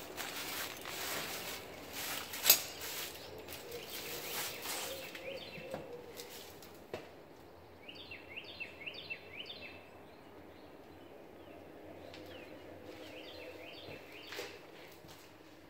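Footsteps and handling noise with a sharp knock a couple of seconds in, then a songbird calling a quick run of falling chirps, repeated a few seconds later.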